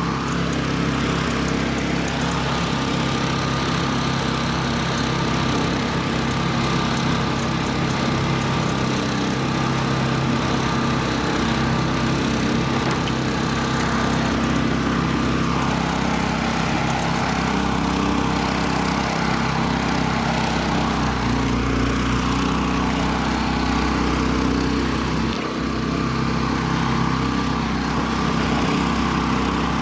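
Homemade karakat's engine running steadily under load as the vehicle drives.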